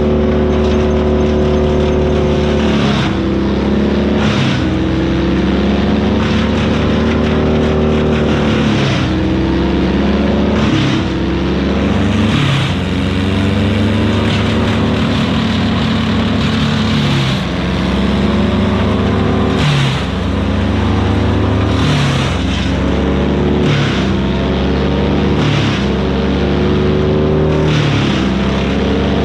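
Vermeer BC1000XL gas wood chipper running at full speed and chipping branches. The engine note dips over and over as the wood is fed in and pulls it down, then recovers, with bursts of crackling and grinding as the wood is chipped.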